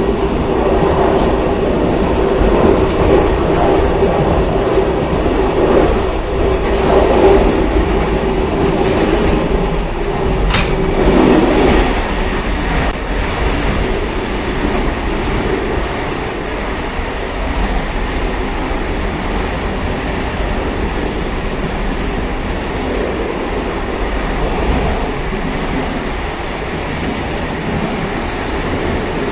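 A railcar running along the track with a steady rumble. A hum rides on it through the first part and fades out a little under halfway through. There is one sharp click about a third of the way in.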